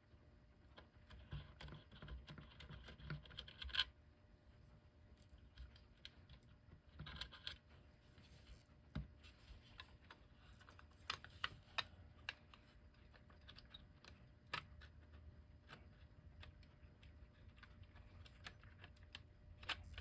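Faint, scattered small clicks and scrapes from handling metal clock-movement parts and small hand tools while working the posts of an electric clock movement loose. A few sharper clicks stand out, around 4 s and 9 s in and again later.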